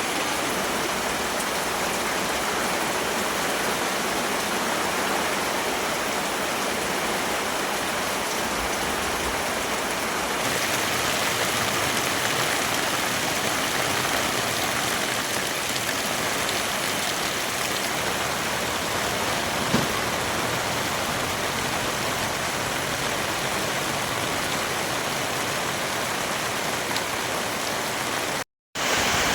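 Heavy rain falling, a steady hiss that gets a little louder about a third of the way through. There is a single sharp knock about two-thirds through, and the sound cuts out for a moment near the end.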